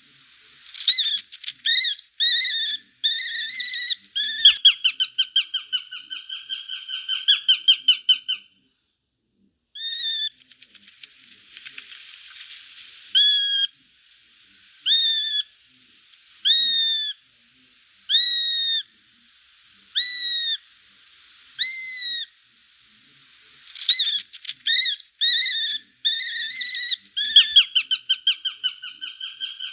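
Shrill bird calls: single arched notes repeated every second or two, broken by fast runs of many quick notes that drop slightly in pitch, one near the start and one near the end.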